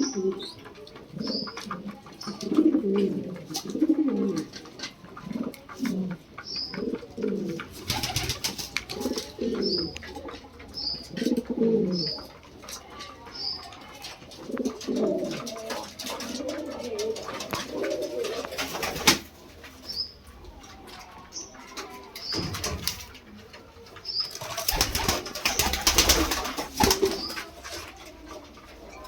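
Lahore pigeons cooing over and over in low, throaty calls, with short high chirps scattered between. Loud rustling bursts come about a third of the way in, a little past halfway, and again near the end.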